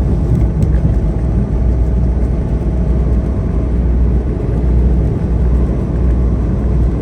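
Semi truck on the road, its diesel engine and tyre noise making a steady, deep drone under heavy load, with the rig grossing about 79,000 pounds.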